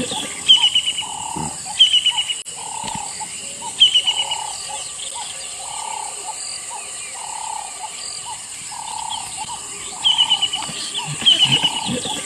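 Repeated animal calls: a quick run of about four high notes every second or so over lower calls that repeat more often, with a constant high-pitched hum underneath.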